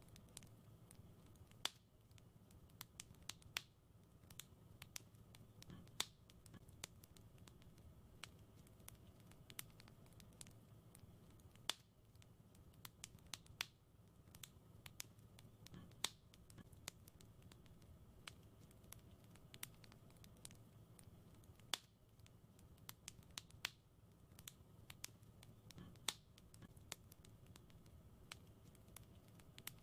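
Wood fire in a fireplace crackling: sharp, irregular pops and snaps over a soft low rumble, with the same pattern of louder pops coming back about every ten seconds, as in a looped recording.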